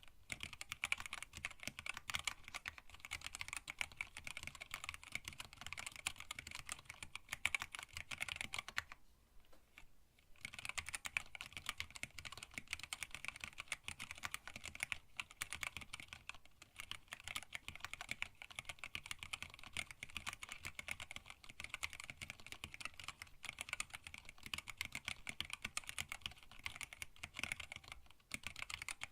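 Continuous fast typing on a hand-wired split mechanical keyboard with linear Tealios switches, an acrylic case and blank PBT keycaps: a steady run of key clacks, with a pause of about a second and a half about nine seconds in.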